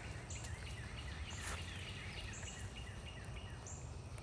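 A small animal calls in a steady run of short, quick chirps that slide downward, about two to three a second, with fainter, higher chirps now and then over a low steady rumble.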